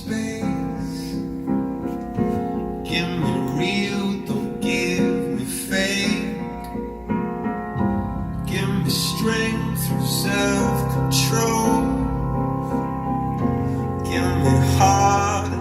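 Recorded song with singing over piano or keyboard chords, played back through a pair of KLH Model Twelve loudspeakers fitted with upgraded external crossovers. The bass line grows fuller about halfway through.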